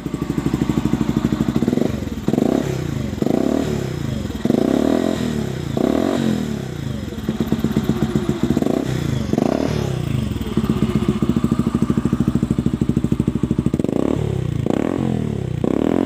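Yamaha New Vixion Lightning's single-cylinder four-stroke engine running through a gutted Scorpio Z aftermarket exhaust, idling and blipped in short revs with a deep, bassy note. A run of quick throttle blips fills the first ten seconds or so. It then settles to a steady idle for a few seconds, and there are more blips near the end.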